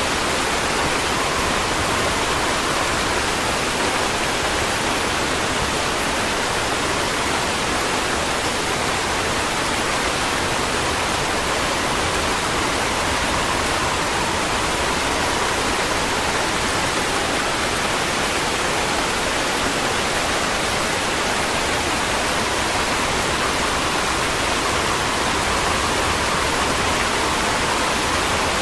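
Steady rain, an even unbroken hiss with no single drops standing out.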